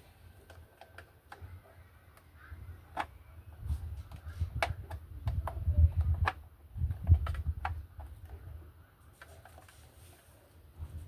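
Scattered light clicks and taps of hands working on washing machine parts, with a run of low handling thumps in the middle.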